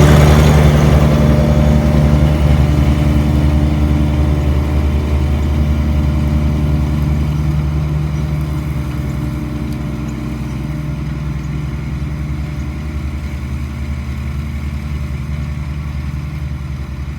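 Compact tractor's three-cylinder diesel engine running steadily, loud at first and slowly fading.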